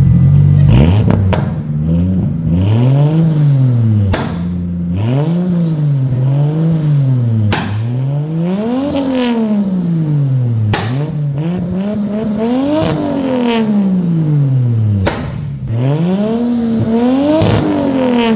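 Straight-piped RB30 turbo straight-six revving up and dropping back again and again, with a loud exhaust bang as the revs fall four times. The bangs come from heavily retarded decel timing with fuel cut switched off.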